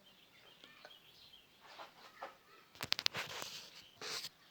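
Faint room tone with weak, bird-like chirps and a short run of sharp clicks about three seconds in.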